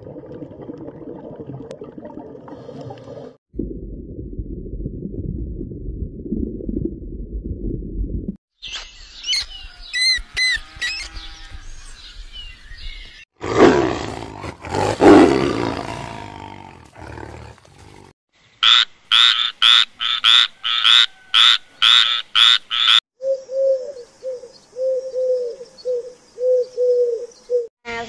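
Separate animal sound clips cut together, changing every few seconds. The loudest is a tiger's roar about halfway through. Near the end come a run of sharp high calls, about two a second, then a string of low pulsed calls.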